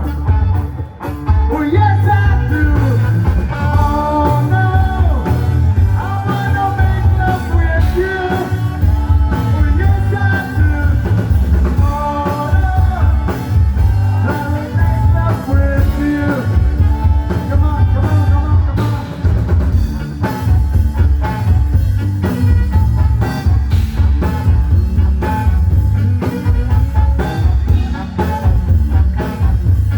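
Rock band playing with a singer over a heavy, steady bass beat. The singing drops out about two-thirds of the way through and the band plays on.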